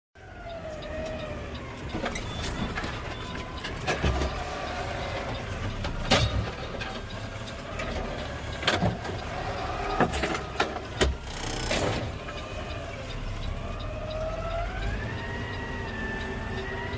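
Automated side-loader garbage truck working: a whine that slowly rises and falls in pitch over a low running rumble, with several sharp knocks and clanks and a short rush of noise about twelve seconds in.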